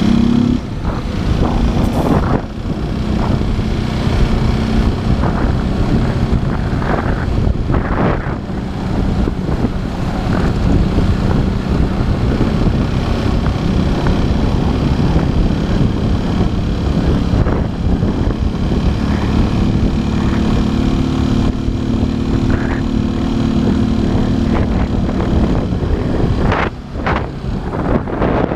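Motorcycle engine running while riding in street traffic, with wind rushing over the helmet camera's microphone. The engine note is clearest near the start and again about two-thirds of the way through.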